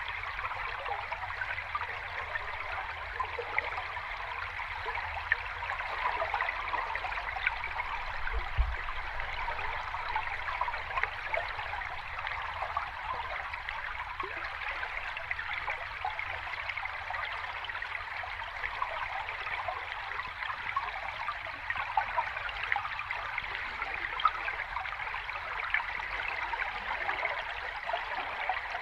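Water of a small stream or cascade flowing steadily, a continuous splashing trickle. There is one brief low thump about eight seconds in.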